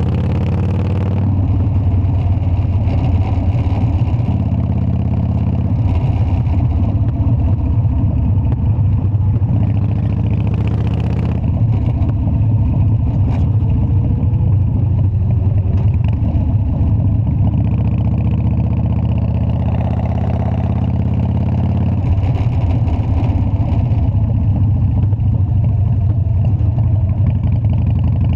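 Harley-Davidson Dyna's air-cooled V-twin engine running, its exhaust pulsing steadily, with the note shifting several times as the throttle changes.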